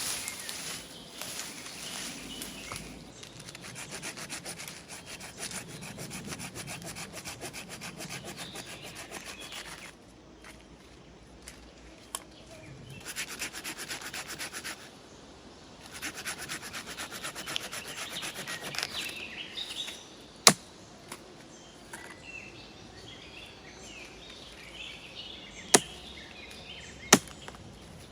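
Hand saw cutting dry wood in several bouts of rasping strokes, with pauses between them. Near the end come three sharp knocks.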